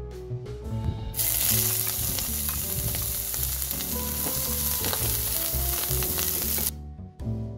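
Sliced mushrooms sizzling loudly in hot oil in a non-stick frying pan as they are stirred with a wooden spatula. The sizzle starts suddenly about a second in and stops near the end.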